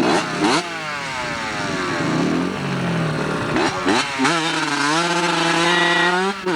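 Dirt bike engine running, its pitch falling as it slows. About four seconds in it revs up and holds a high, steady pitch, then drops briefly near the end. A few sharp knocks come near the start and just before the rev.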